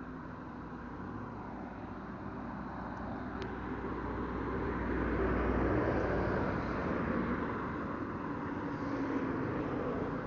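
Road vehicle engine and road noise, growing louder to a peak about halfway through, then easing off.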